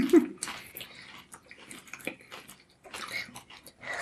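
Irregular crunching and small crackles of people chewing crisp taco shells close to the microphone.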